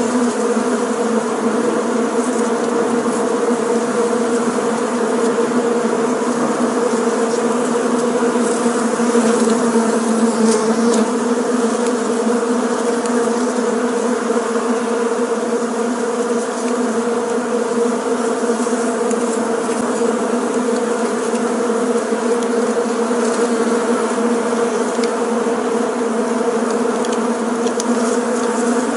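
Bees in flight buzzing in a steady, continuous hum, a low drone with its overtones and no pauses.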